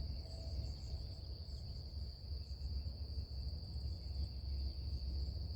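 Crickets trilling: one steady, unbroken high-pitched chorus over a low background rumble.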